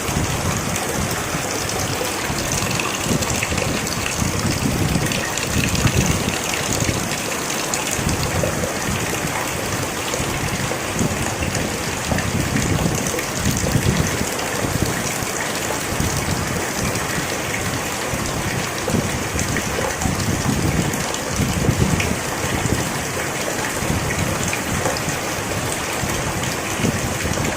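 Steady heavy rain: a dense, even hiss with a low rumble that comes and goes.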